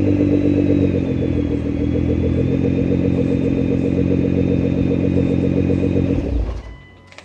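Nissan R35 GT-R's twin-turbo V6 running steadily through a full-titanium exhaust with the second catalytic converter removed, a dense even drone with a fast pulse. The drone stops suddenly about six and a half seconds in.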